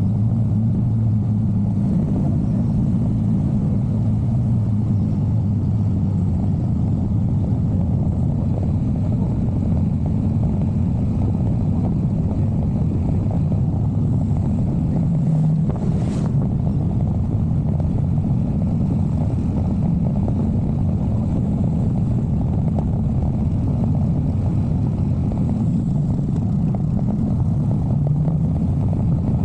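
Motorcycle engine running steadily under way, mixed with the low rumble of wind and road noise. There is one brief sharp click about halfway through.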